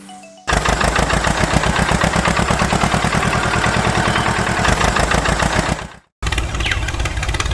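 Small engine of a miniature DIY tractor running with a rapid, even firing beat. It cuts off abruptly around six seconds in and starts again a moment later.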